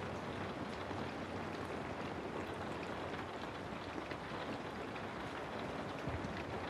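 Steady rain falling, with scattered drops ticking on a surface over a low, even rumble.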